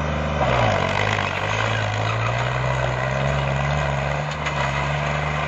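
New Holland tractor's diesel engine running hard under load. Its note dips about half a second in, then climbs back slowly and holds steady.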